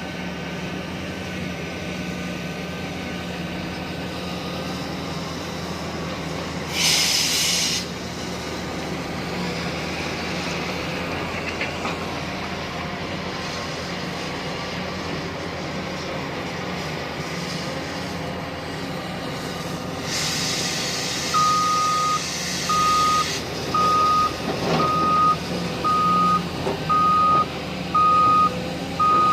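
Tata Hitachi Zaxis 870 LCH excavator's diesel engine running steadily, heard from the operator's cab, with a short burst of hiss about seven seconds in and another around twenty seconds. From about twenty-one seconds a reversing alarm beeps about once a second.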